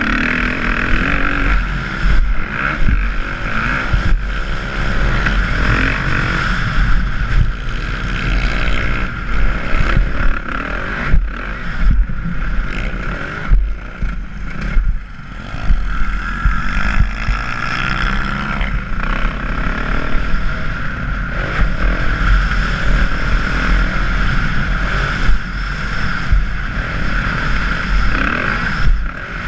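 Dirt bike engine revving up and down over and over as the bike rides a motocross track, with wind noise on the microphone.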